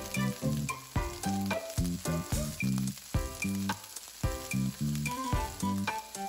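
String beans and carrots sizzling as they fry in a skillet, under background music with a steady beat.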